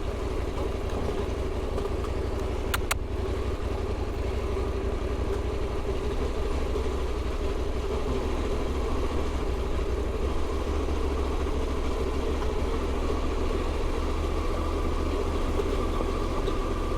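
KTM adventure motorcycle engine running steadily. A short double click sounds about three seconds in.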